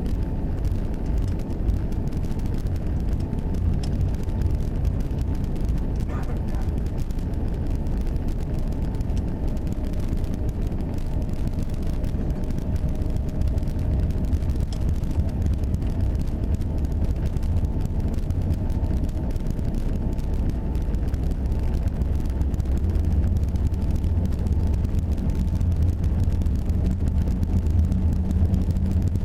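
Airbus A380 cabin noise heard from a window seat: a steady, deep rumble of the aircraft and its Engine Alliance GP7200 turbofans with a faint steady hum above it, growing a little heavier near the end.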